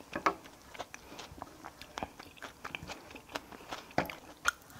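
A person chewing food close to the microphone, with irregular small crunches and clicks.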